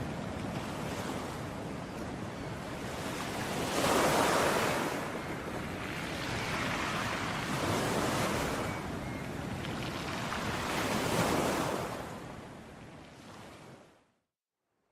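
Sea waves breaking and washing up on a shore, surging louder about every three to four seconds. The surf fades out to silence shortly before the end.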